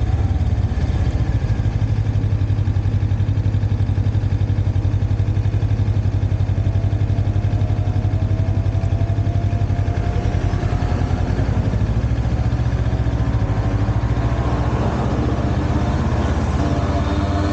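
Motorcycle engine running steadily at low revs, a deep pulsing hum. Near the end its note climbs as it accelerates.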